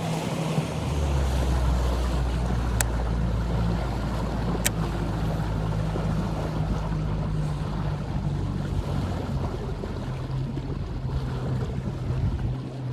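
Boat motor running at a steady low speed, with wind noise on the microphone and two sharp clicks about three and five seconds in.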